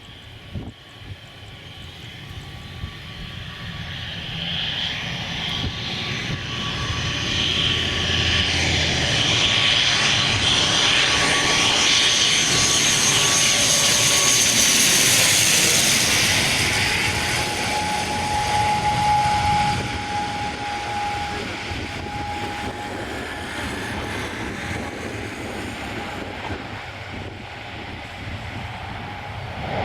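Airliner engines passing close by, the sound building steadily to a peak about halfway through with a high whine, then easing off but staying loud.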